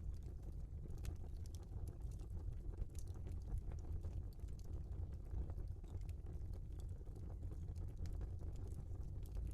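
Log fire burning in a fireplace: a steady low rumble with scattered small crackles and pops.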